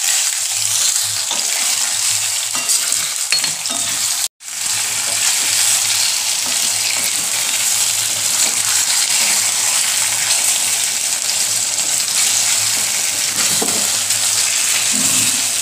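Raw potato strips with cumin seeds sizzling steadily in hot oil in a metal kadai, stirred with a spoon. The sound breaks off for a moment about four seconds in.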